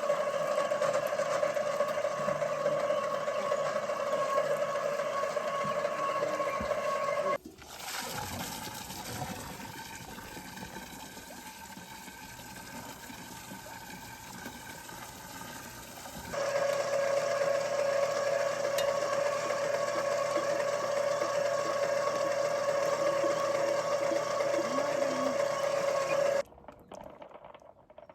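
A machine running steadily with a hum, in segments that change abruptly a little over 7 s and about 16 s in, and that stop suddenly near the end.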